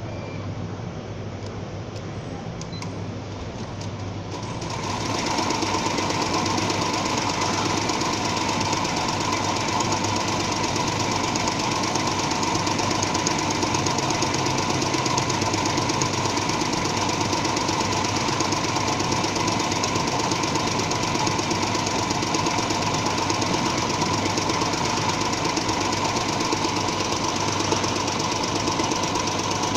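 Computerized embroidery machine starting up about four seconds in and then stitching steadily, a fast, even rhythm of needle strokes over a low hum.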